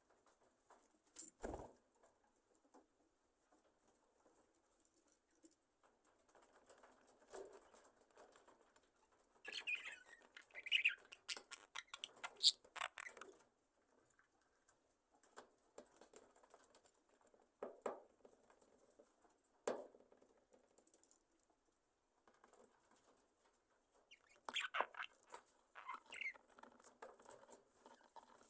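A budgerigar flock chirping and chattering softly, with feather rustles and scattered small clicks. The chirping comes in two livelier spells, one in the middle and one near the end.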